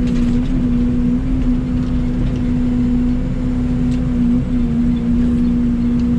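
Mini excavator running steadily while digging: a steady engine hum over a low rumble, wavering briefly in pitch a few times as it works.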